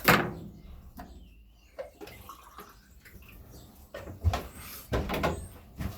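Fresh water being poured into a cage bird's drinker, with a sharp clatter at the start and several knocks later as the drinker is handled. Faint chirps of caged finches come in between.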